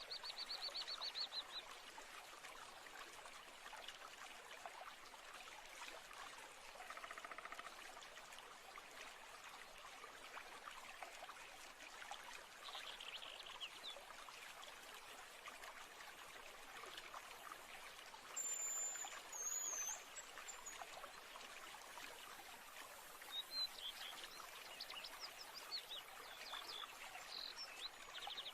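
Soft nature ambience of flowing water, a steady gentle rush, with scattered bird chirps and short trills. A high, thin whistled call sounds twice about two-thirds of the way through, and a run of quick chirps comes near the end.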